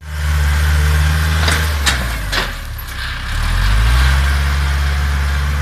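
Kubota tractor's diesel engine running under load, sagging briefly and then revving back up about three seconds in. A few sharp knocks come shortly before the dip.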